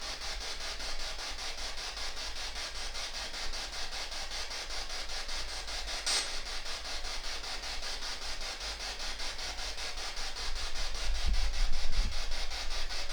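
Ghost-hunting spirit box sweeping through radio stations: a steady hiss of static chopped into a fast, even flutter. A sharp click comes about six seconds in, and low thumps come near the end.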